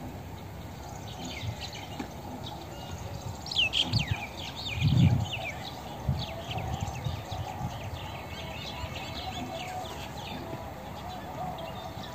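Small birds chirping in quick, high, short notes, most densely from about a second to eleven seconds in, over a steady low outdoor rumble. A short low rumble about five seconds in is the loudest moment.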